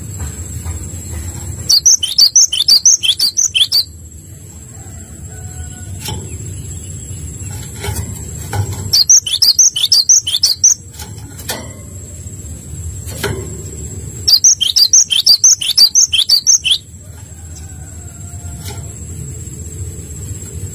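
A small songbird singing: three alike phrases of rapid, sharp high notes, about two seconds each and several seconds apart, over a steady low hum.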